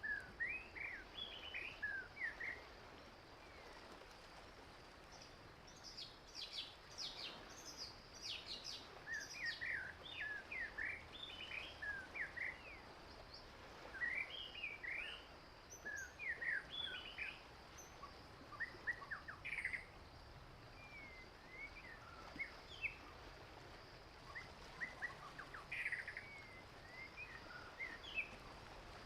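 Wild songbirds chirping and calling: many short, quick notes in scattered bursts, with a faint steady hiss beneath.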